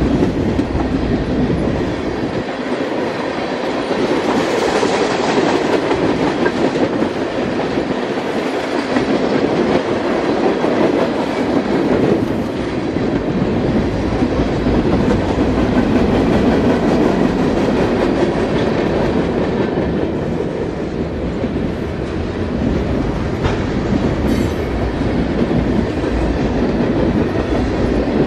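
A Wheeling & Lake Erie train's cars rolling steadily past, a continuous loud wheel-on-rail noise.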